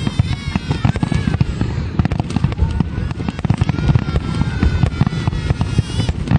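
Fireworks display: shells bursting and crackling in a dense, continuous barrage of rapid pops and bangs, with high gliding tones rising and falling above it.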